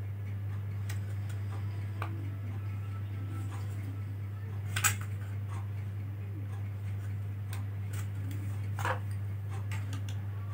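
Scattered light clicks and taps of small plastic and metal laptop parts being handled and fitted, two of them sharper, about halfway through and near the end, over a steady low hum.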